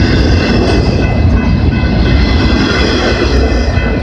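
Freight train of empty double-stack intermodal well cars rolling past close by: a loud, steady rumble of steel wheels on rail, with a high-pitched whine held over it.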